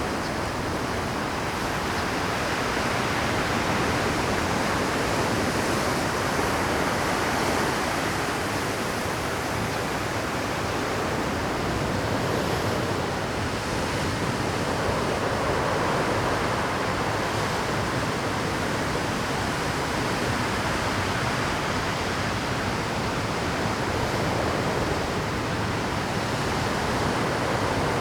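Rough Pacific surf breaking and washing over a rocky shore: a dense, continuous rush of water that swells and eases every few seconds as waves come in at high tide.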